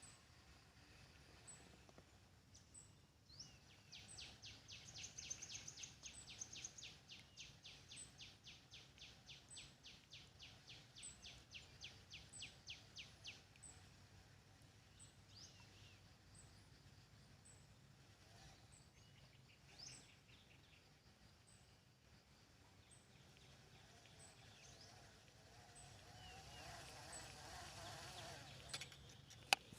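Faint birdsong: a short high note repeating about once every second and a half, joined from about four seconds in by a rapid run of high notes, about five a second, lasting roughly ten seconds. A sharp click comes just before the end.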